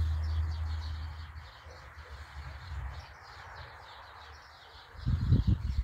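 Small birds chirping over and over. A low rumble fades out in the first second and a half, and a few low thumps come near the end.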